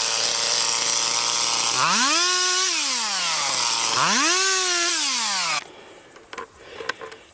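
Stihl MS290 Farm Boss two-stroke chainsaw running at a low steady speed. It is revved up twice, each time rising to a high whine and dropping back. The sound stops abruptly about five and a half seconds in.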